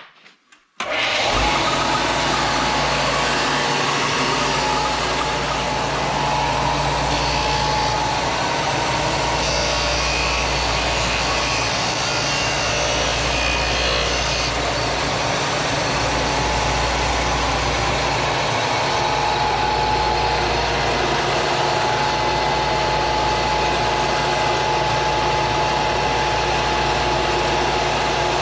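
A woodshop power tool switched on about a second in and running steadily, with a steady whine. Between about 8 and 14 seconds a brighter hiss is added, as if the tool is working on wood.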